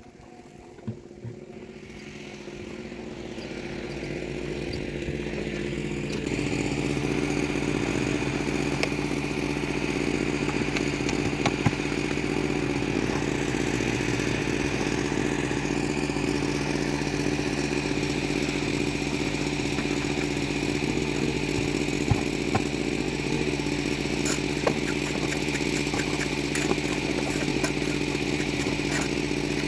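A small engine running steadily at an even speed. It fades in over the first few seconds, with occasional sharp clacks over it.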